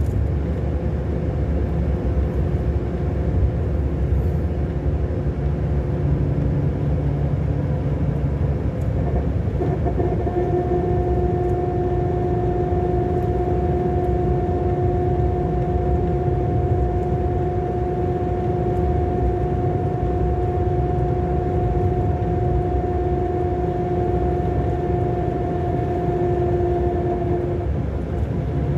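Scania K-400 Euro 5 coach engine running steadily while the bus is under way, a constant low rumble. A steady tone joins about a third of the way in and drops out shortly before the end.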